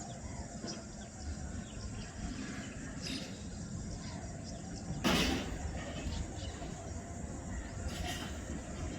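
Outdoor background noise: a steady low rumble, with a brief, loud burst of noise about five seconds in.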